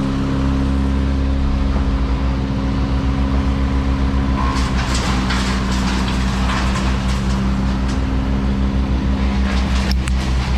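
A large engine running steadily at low speed with a regular low throb, with rasping noise laid over it from about four and a half to seven seconds in and again near the end.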